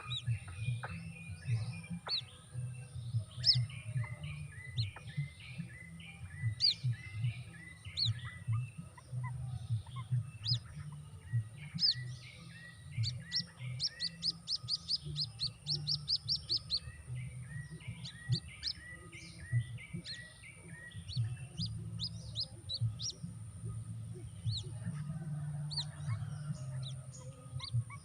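Birds calling: many sharp chirps and rapid series of repeated notes, with a low rumble underneath.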